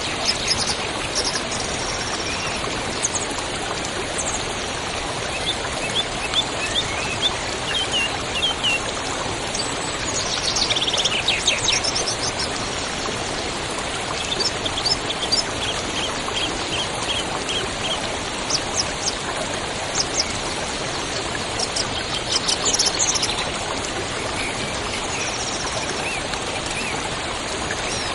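Steady rush of flowing water with birds chirping over it in several short runs of quick, high chirps.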